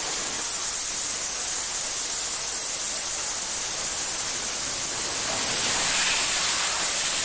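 Steady hiss of rushing, spraying water, growing a little louder about five and a half seconds in.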